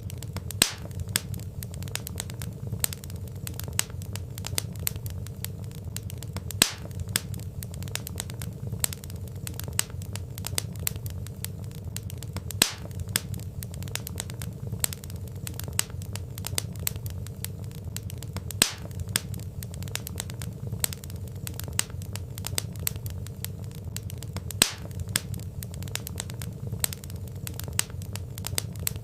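Burning logs crackling in a fireplace: a steady low rumble of flames under dense small crackles, with a sharper, louder pop about every six seconds.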